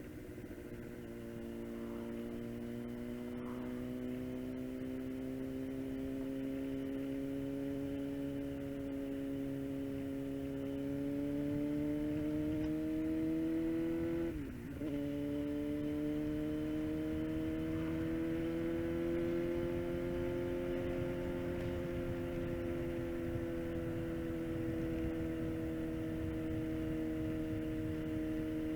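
Suzuki GSX-R750 inline-four with a full Yoshimura exhaust, running at a steady, slowly rising and easing engine note while riding, with a brief drop in sound and pitch about halfway through.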